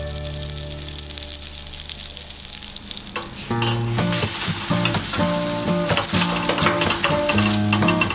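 Patties shallow-frying on a flat iron tawa, sizzling steadily. About three and a half seconds in, a paratha takes over, sizzling on the hot tawa with some scraping and stirring sounds from a wooden spatula. Background music with a beat comes in under it.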